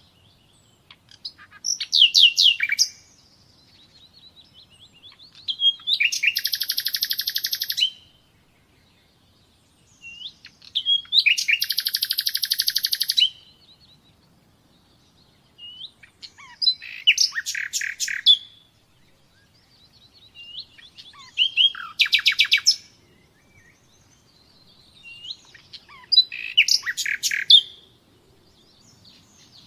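A songbird singing in separate phrases about every four to five seconds, each lasting one to two and a half seconds. Some phrases are fast, buzzy trills and others are quick runs of high chirps and whistles.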